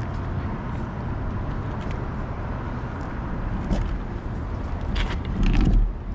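Steady wind rush and road noise from a moving bicycle in street traffic, with a louder low rumble about five seconds in, such as a passing car.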